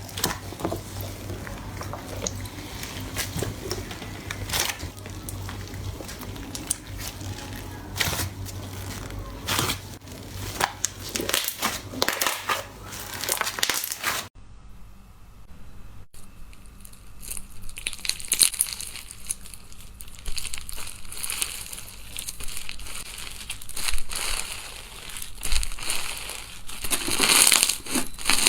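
Hands pressing and squeezing slime, with dense crackling and crunching clicks. A low hum sits under the first half; about halfway through the sound changes abruptly, and the crackling then builds to its loudest near the end.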